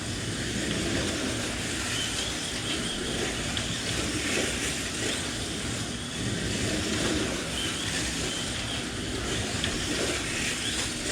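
1/32 scale slot.it Group C slot cars racing: their small electric motors whine, rising and falling in pitch as they speed up and slow for corners, over a steady hiss from the cars running on the track.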